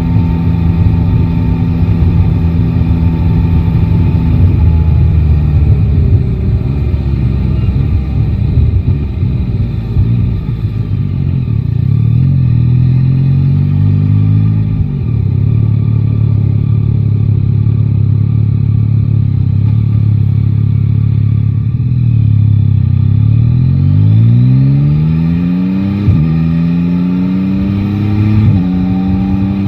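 Yamaha Tracer 9 GT's three-cylinder engine under way. It pulls at a steady pace, eases off, and holds a steady note for a while. Near the end it accelerates hard through the gears, its pitch rising and dropping back at each of several quick upshifts.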